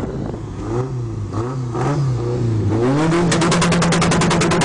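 Tofaş Şahin car engine revved in several short blips, then held at high revs on an ignition cutter about three seconds in, the exhaust firing a rapid, even string of pops, about a dozen a second.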